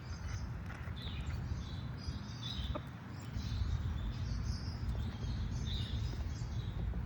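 Birds chirping: short, high chirps repeating every second or so over a low steady rumble.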